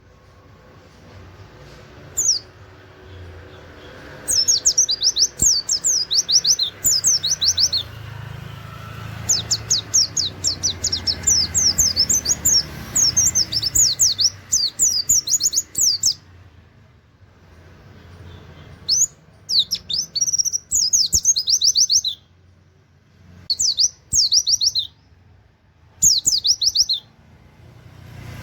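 Pleci (white-eye) singing in rapid-fire bouts of fast, high, down-slurred notes, the "nembak" style, with canary-like "wit wit" phrases. A long run of about twelve seconds is followed by several shorter bursts with brief pauses between them.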